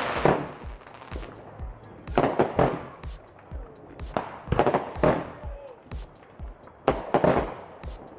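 Music with a steady beat, with fireworks going off over it: clusters of sharp bangs and crackle about every two to three seconds.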